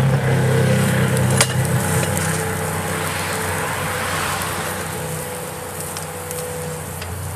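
A motor or engine running steadily, strongest at first and fading over several seconds, with a single sharp knock about a second and a half in.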